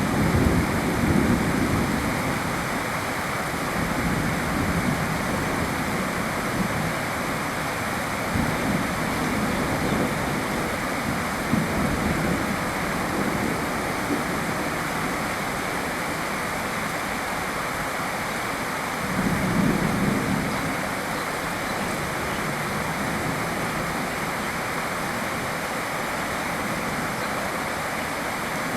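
Steady rainfall, with a low rumble swelling near the start and again about two-thirds of the way through.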